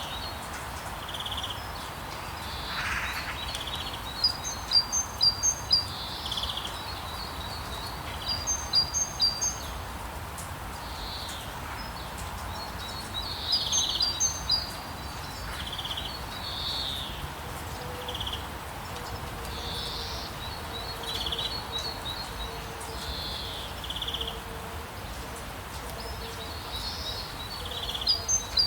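Songbirds chirping: quick runs of short, high notes every few seconds, with scattered single calls between. Underneath is a steady hiss of light rain.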